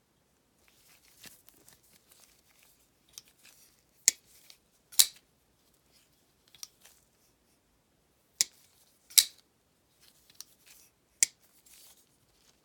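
Flipper folding knife being flipped open and closed: sharp metallic clicks of the blade snapping out and locking, then being shut, twice in quick pairs and once more near the end, with faint handling rustle and light ticks between.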